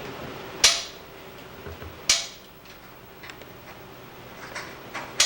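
Three sharp knocks, each with a short ringing tail: one under a second in, one about two seconds in and one near the end.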